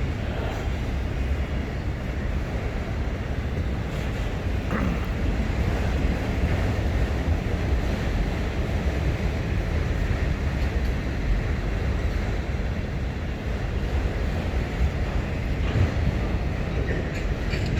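Steady low rumble of a diesel-hauled freight train of empty autoracks, with wind buffeting the microphone.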